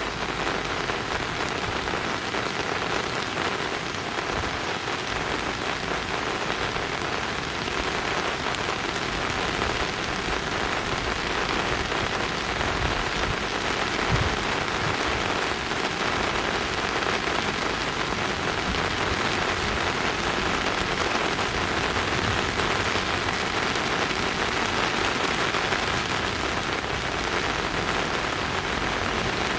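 Steady, even hiss of falling water, like rain.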